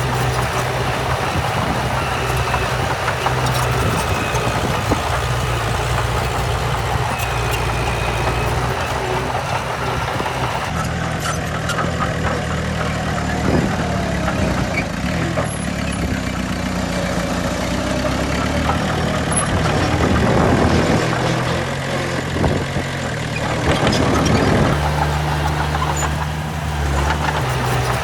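Heavy diesel engines of earthmoving machinery (dump truck and bulldozer) running steadily, with the engine note rising and falling a few times in the second half as the machines work.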